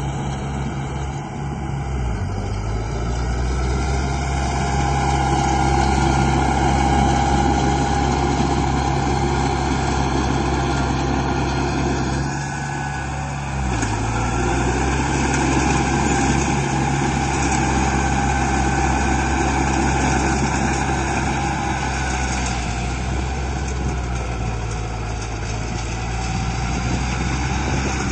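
Vehicle engine running steadily at a low, even pitch, dipping briefly about two seconds in and again around thirteen seconds.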